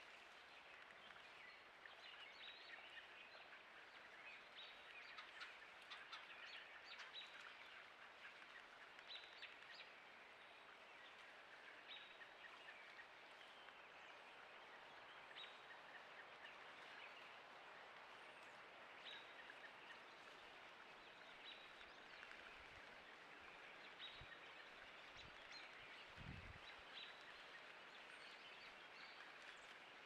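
Faint, scattered short bird chirps over a steady low hiss, with a few soft low bumps near the end.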